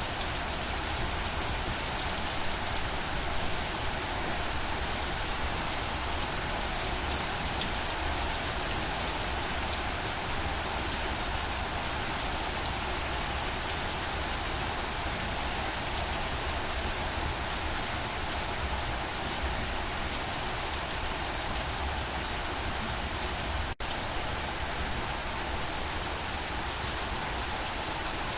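Steady rain falling, a dense even hiss of many drops on a surface. The sound cuts out for a split second about 24 seconds in, then carries on unchanged.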